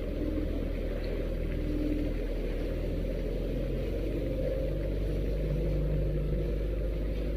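Small fishing boat's engine running steadily at a low drone.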